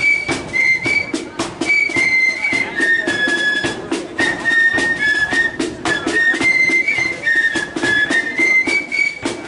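A marching flute band plays a tune: massed flutes carry a high stepping melody over a steady beat of drums.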